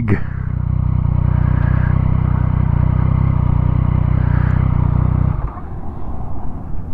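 Yamaha motorcycle engine idling steadily, then shut off about five seconds in.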